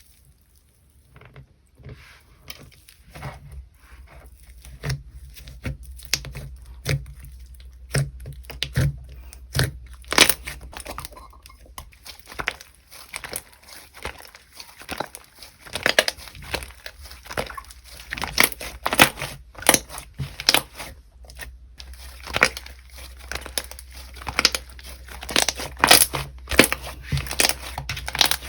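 Slime being squished, pressed and stretched by hand, giving a continuous run of sharp popping and crackling clicks that grows louder and denser about ten seconds in.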